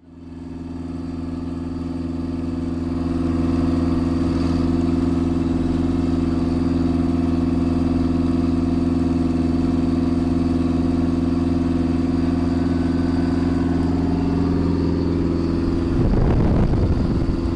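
Light aircraft piston engine running at a steady cruise setting, a constant drone that fades in over the first few seconds. A rougher, crackling noise joins near the end.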